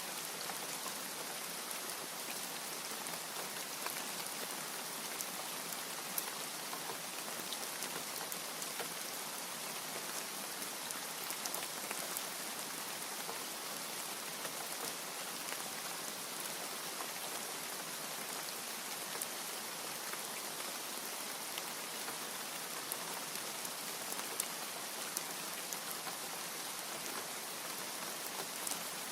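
Steady rain, a dense even hiss with many separate drops ticking through it.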